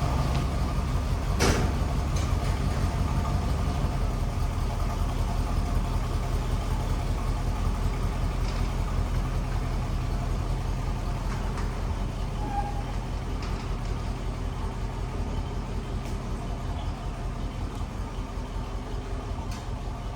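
A vehicle engine idling with a steady pulsing rumble that slowly fades, with a single knock about a second and a half in.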